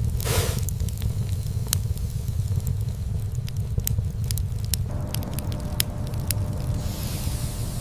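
Crackling fire: a steady low rumble with many scattered sharp pops and crackles, a brief hiss right at the start and a softer hiss near the end.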